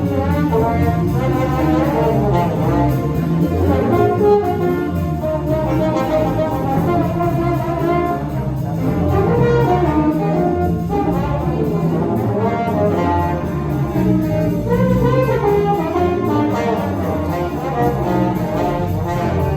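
High school jazz big band playing, with the brass section carrying the music.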